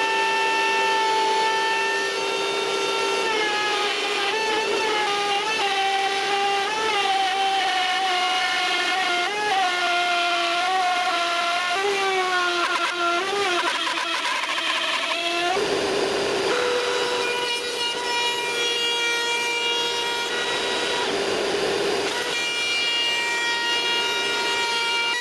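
Electric circular saw running with a steady whine. For most of the first half the pitch wavers and sags as the blade cuts through wood, and after about fifteen seconds it rises back to a steady pitch once the blade runs free.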